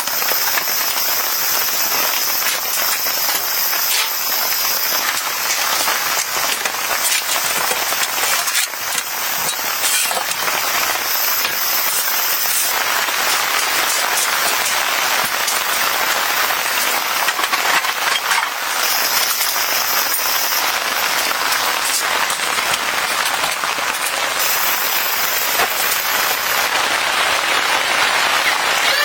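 Steady rain falling, a dense hiss of many small drop impacts on a surface.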